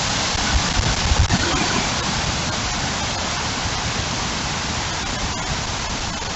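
Heavy rain pouring steadily in a windstorm. Low gusts of wind buffet the microphone about a second in.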